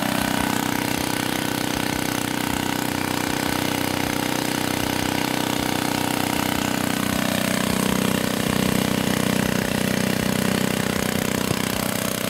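Small gas engine of a homemade 2-inch gold dredge running steadily, with a slight rise in level partway through.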